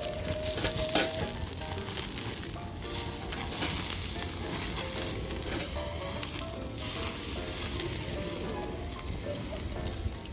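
Food sizzling and frying in a hot pan, a steady crackling hiss.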